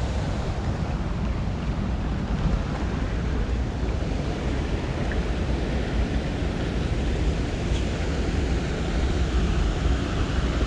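Wind buffeting the microphone: a steady, rumbling rush with most of its weight in the low end.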